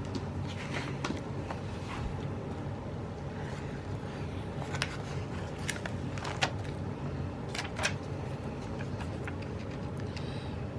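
Small desk handling sounds of pen and paper: a few light clicks and taps, the clearest about five, six and a half and seven and a half seconds in, over a steady low hum.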